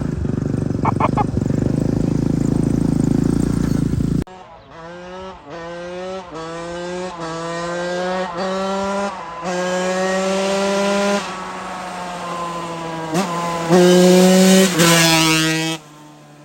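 Small off-road engine being ridden hard: a loud, rough engine sound at first, then, after a sudden change, the engine revving up and shifting up through the gears several times, its pitch climbing and dropping with each shift. It is loudest near the end, then cuts off.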